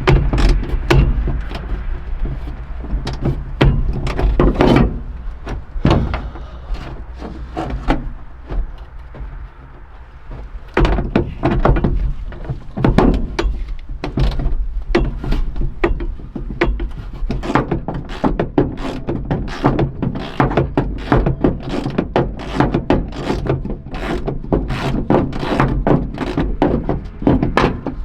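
Repeated knocks and thunks of hand tools working on an old pickup truck's body during teardown, irregular at first and coming more often from about a third of the way in, over a steady low hum.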